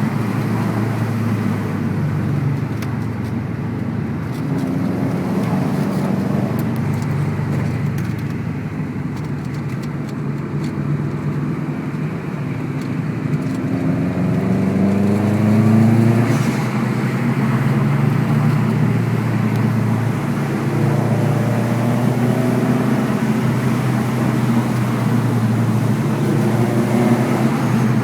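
Subaru WRX's turbocharged flat-four engine heard from inside the car while driving, the revs rising and falling with the road. About halfway through the engine climbs in pitch for a couple of seconds, then falls away with a brief hiss.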